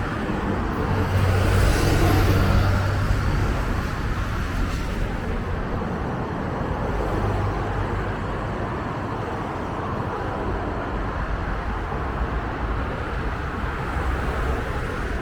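City bus engine running, loudest with a low hum and a faint high rising whine in the first three seconds, then settling into steady street traffic noise.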